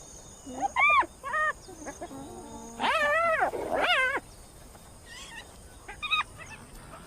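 Spotted hyena cubs calling: about five short, high calls that rise and fall in pitch, the longest and loudest near the middle.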